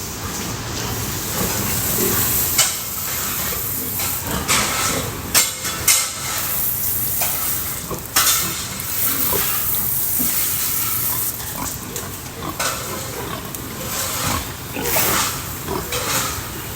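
Pigs in a pen grunting, over a steady noisy background broken by frequent sharp knocks and clatter.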